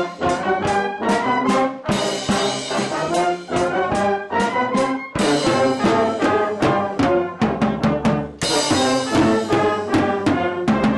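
Brass music, with horns playing many short notes over drum hits.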